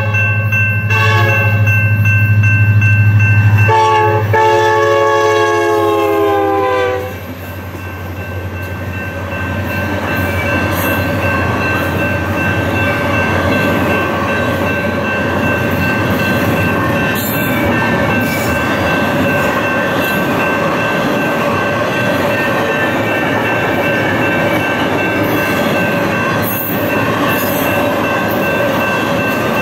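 Locomotive air horn blowing for about the first seven seconds, its pitch dropping sharply at the end as the locomotive passes, then the train rolling by with a steady rumble and clatter of wheels on rail.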